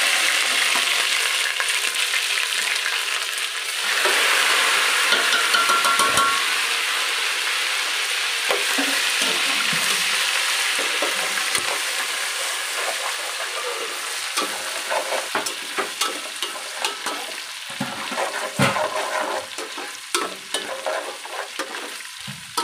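Ginger-garlic paste sizzling in hot oil in an aluminium pot. The sizzle swells about four seconds in and then slowly dies down, while a metal ladle stirs and knocks and scrapes against the pot.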